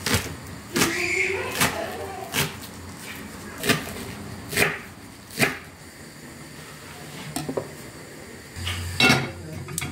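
A series of sharp knocks or clacks, about eight, at irregular intervals, with a longer pause before the last one near the end.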